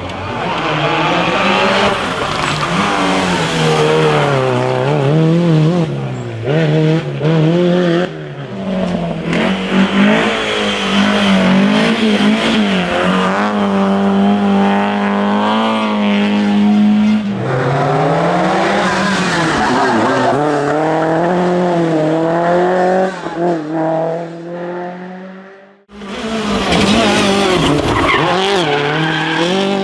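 Rally car engines driven hard, revs climbing and dropping with each gear change and lift, with tyre squeal. The sound cuts out abruptly about four seconds before the end, then another car is heard revving.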